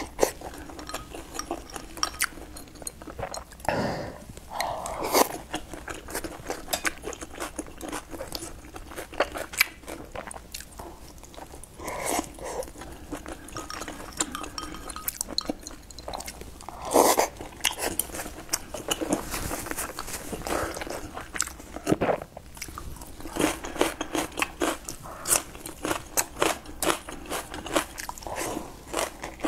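Close-up eating sounds: a person biting into and chewing soft steamed buns, with many small wet mouth clicks and a few louder moments.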